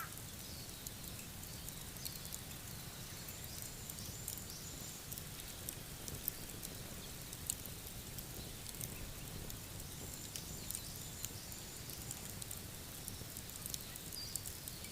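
Campfire crackling, with scattered small snaps and a few louder pops over a steady soft hiss. Faint high chirping trills come and go twice in the background.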